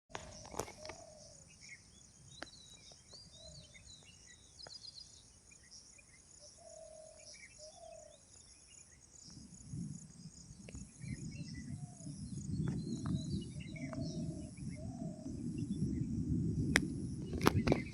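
Steady high chirring of insects with scattered short bird chirps. From about halfway in, a low rumbling noise joins and grows, with a few sharp clicks near the end.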